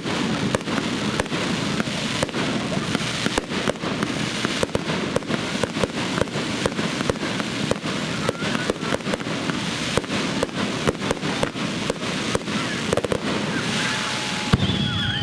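A fireworks display going off in a rapid, continuous barrage of bangs, several a second, over a constant crackling haze, with one heavier boom near the end.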